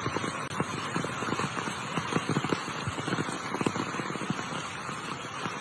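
Heavy rain: a steady hiss with many irregular knocks of drops hitting a hard surface.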